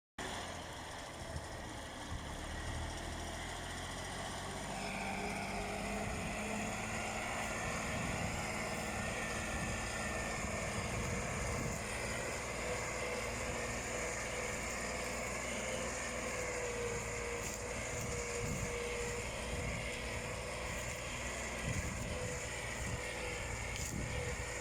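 Tractor engine running, then revving up about five seconds in and held at high revs under hard acceleration.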